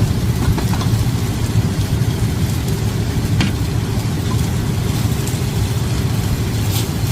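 Strong wind buffeting the microphone: a loud, steady low rumble, with a few faint clicks.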